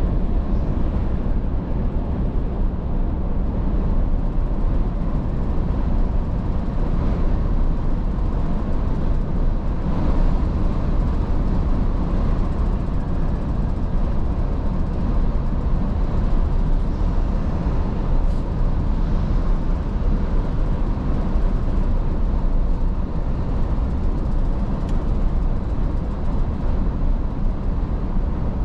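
Iveco S-Way truck driving along: a steady low rumble of diesel engine and road noise with no change in pace.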